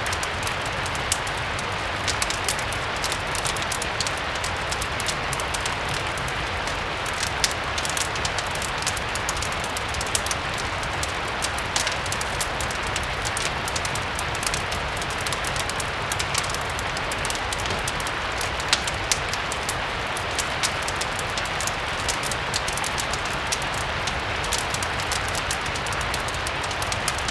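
Steady rain hiss mixed with frequent small, sharp crackles from a wood fire, over a low steady rumble.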